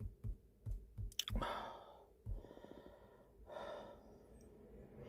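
A man sighing and breathing out while hesitating, with a few soft low knocks in the first second and a half.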